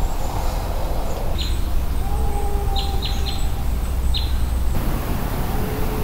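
A small bird chirping: about five short, high chirps that fall in pitch, over a steady low rumble and a few faint held tones lower down.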